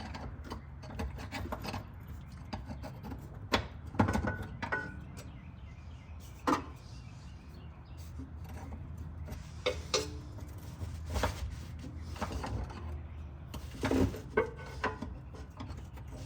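Hand tools and metal parts being handled: scattered clinks, knocks and rubbing, a few with a short ring, over a steady low hum.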